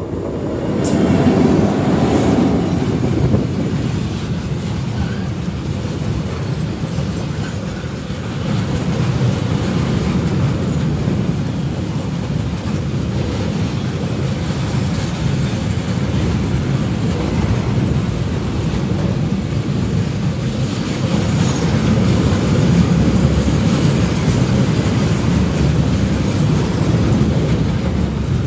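Electric-hauled container freight train passing close by. The loud noise comes up sharply in the first second or two as the locomotive goes by, then the wagons' wheels on the rails keep up a steady rumble.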